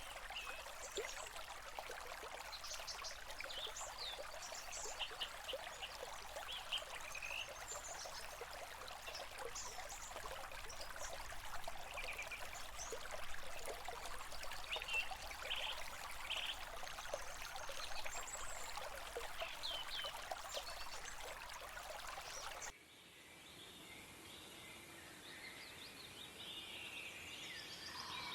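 A stream runs steadily with many birds chirping over it in short, quick calls. About 23 seconds in it cuts abruptly to a quieter birdsong recording without the water, and the bird calls grow busier near the end.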